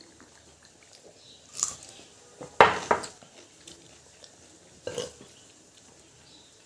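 Close-up eating sounds of a person eating boiled food: three short, sudden bites, the loudest about two and a half seconds in, with quiet between.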